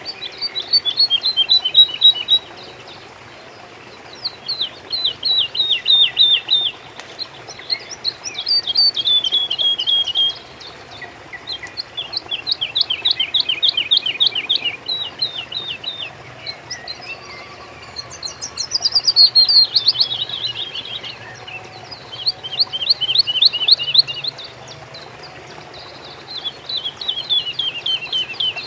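A songbird singing the same phrase over and over, about seven times. Each phrase is a quick run of short notes that falls in pitch and lasts about two seconds, with faint steady background noise between the phrases.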